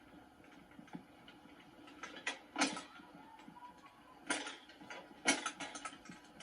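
Scattered sharp clicks and knocks over a quiet background, the loudest about a third and four-fifths of the way in, the second followed by a quick rattle of smaller clicks.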